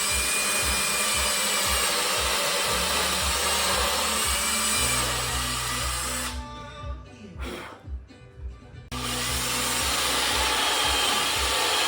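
Cordless power drill/driver running in two long bursts, stopping for a couple of seconds about six seconds in, over background music with a steady beat.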